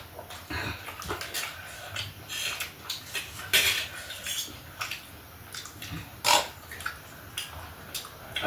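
Close-up eating sounds: a mouth chewing and smacking on chatpate, a spicy puffed-rice snack, in irregular wet clicks, with two louder smacks about three and a half and six seconds in.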